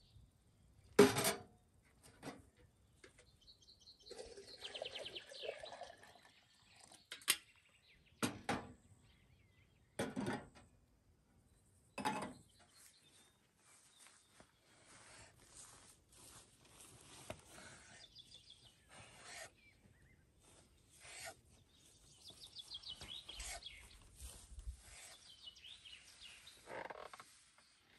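Scattered knocks and scraping of camp food preparation, the loudest knock about a second in, with birds chirping in the background.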